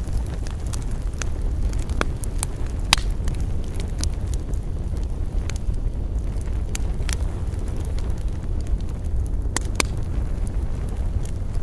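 Wood campfire burning with irregular sharp crackles and pops, a few louder snaps among them, over a steady low rumble.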